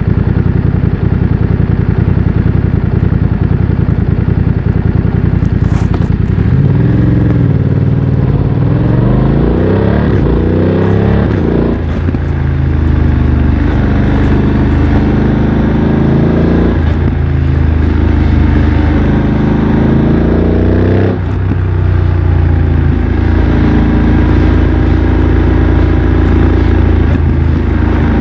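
BMW F900 XR's parallel-twin engine through a MIVV X-M1 aftermarket exhaust, heard from the rider's seat. After a steady low running, it accelerates about a quarter of the way in, the engine pitch rising and dropping suddenly at each of several upshifts, then it settles into a steady cruise.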